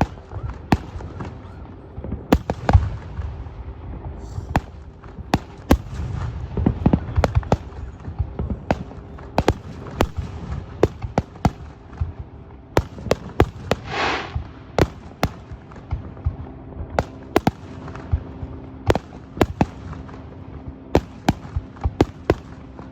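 Fireworks display: a steady string of sharp bangs and pops from bursting aerial shells over a low rumble, with a brief hiss about fourteen seconds in.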